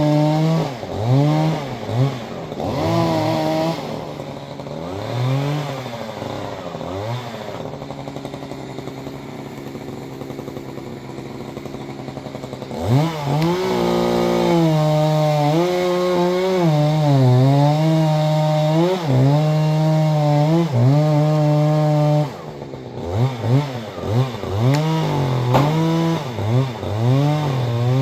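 Chainsaw engine revving in quick blips, dropping back to a lower speed, then held at high speed for about nine seconds while cutting through wood, then blipped again near the end.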